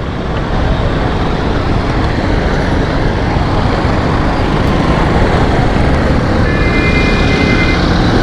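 Steady rush of wind and road noise from a motorcycle ride, picked up by the bike-mounted microphone. A faint high tone sounds briefly near the end.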